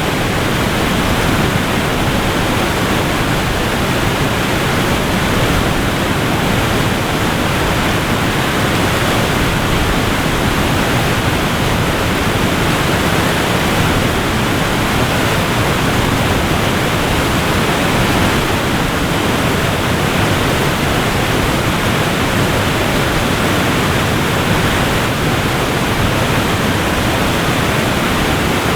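Waterfall rushing in a steady, unbroken roar of falling water, with no change in level.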